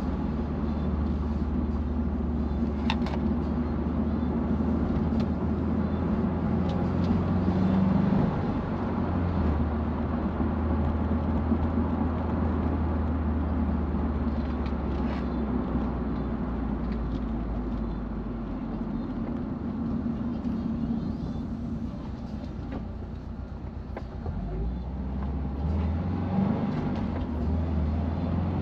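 Subaru WRX STI's turbocharged 2.5-litre flat-four engine heard from inside the cabin while driving at low speed. Its note steps in pitch about eight seconds in, falls to a quieter stretch a little after twenty seconds, then picks up again near the end, with a few faint clicks along the way.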